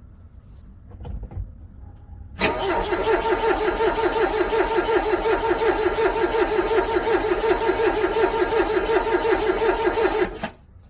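Car starter cranking a cold engine in an even, pulsing rhythm for about eight seconds without it catching, then stopping abruptly. A couple of faint knocks come a second or so before the cranking starts.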